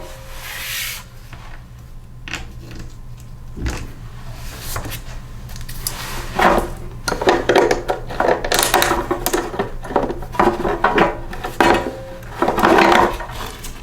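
A bolt being undone and the plastic gas tank being worked off a Briggs & Stratton lawnmower engine: irregular scraping, rubbing and clattering of tool and parts, busier in the second half.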